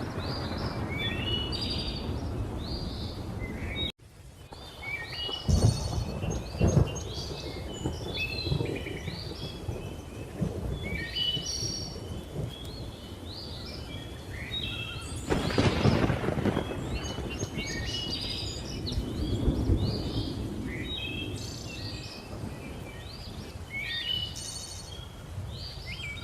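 Thunder rumbling in several swells, the strongest about six and sixteen seconds in, over a steady hiss of rain, while many birds keep up rapid chirps and whistles. The sound cuts out abruptly for a moment about four seconds in, like a splice in a looped track.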